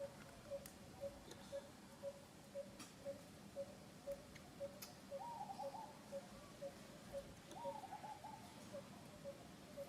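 Faint bird calls: a short, low note repeated evenly about twice a second, with two brief wavering calls about halfway through.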